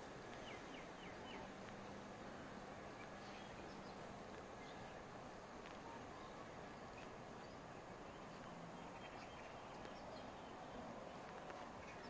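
Faint outdoor ambience: a steady quiet hiss with scattered short chirps of small birds.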